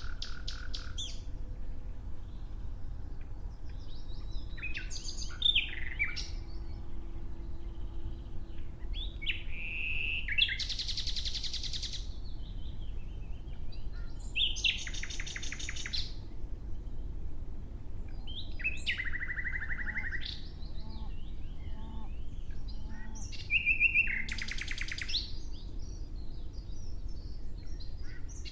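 Nightingale singing in separate phrases every few seconds, about six in all; each phrase is a fast trill or run of rapidly repeated notes mixed with short whistles. A low steady background rumble runs underneath.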